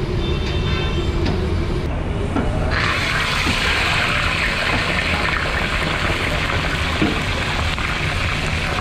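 Food frying in a wok of hot fat on a gas burner: a loud, dense sizzling and bubbling hiss that starts suddenly about three seconds in, as meat and liquid go into the pan, over a steady low rumble.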